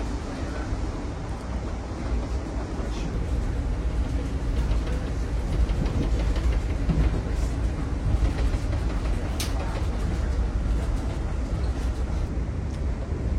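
Passenger train running, heard from inside the carriage: a steady low rumble of wheels on the track with a few light clicks and knocks, one sharper click about nine seconds in.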